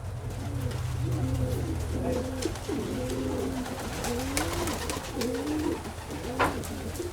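Several domestic pigeons cooing over one another, with a low steady hum underneath and a few clicks, one sharper than the rest near the end.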